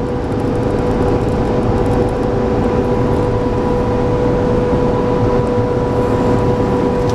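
Steady road and engine noise inside a vehicle's cab while driving on the highway, with a constant whine over the rumble.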